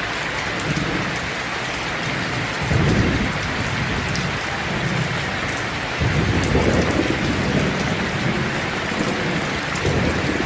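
Steady rain, with low rumbles of thunder swelling about three seconds in, again around six seconds, and more faintly near the end.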